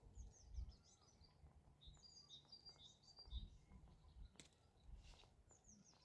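Faint songbird chirps, quick runs of short high falling notes, over a quiet outdoor background, with one sharp click about four and a half seconds in.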